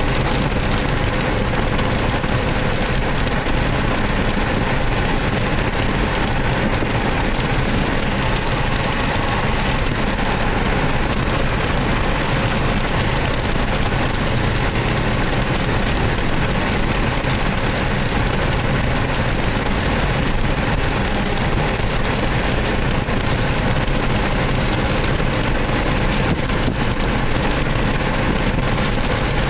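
Car driving at highway speed, heard from inside the cabin: steady road and engine noise with rain on the car. The sound holds at one even level throughout.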